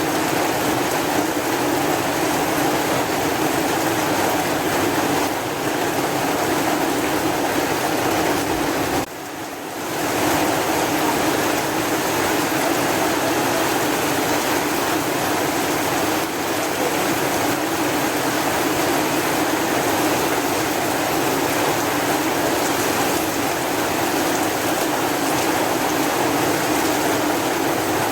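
Heavy rain falling as a steady, even hiss, with a brief dip in loudness about nine seconds in.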